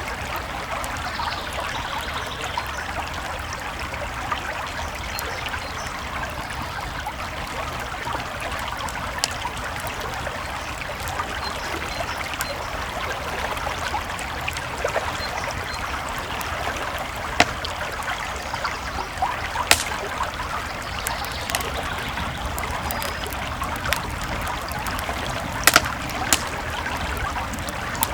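Creek water flowing steadily with a campfire crackling over it; several sharp fire pops stand out in the second half.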